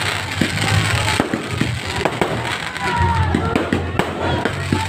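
Fireworks going off: many sharp bangs and crackles in quick succession over a continuous low rumble of booms.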